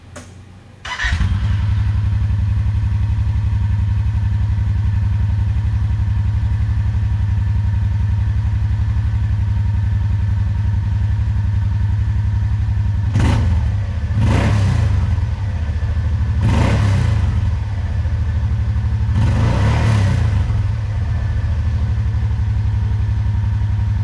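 2017 Kawasaki Teryx 800's V-twin engine on its stock exhaust starting about a second in and idling steadily. It is revved four times in short blips, the last a little longer.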